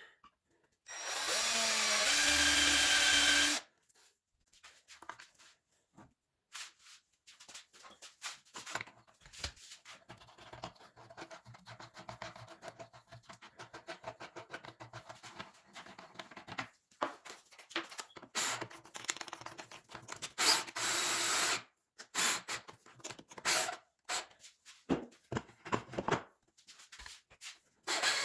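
A power tool running in short bursts, the longest about two and a half seconds near the start, with clicks and knocks of tool handling between the runs.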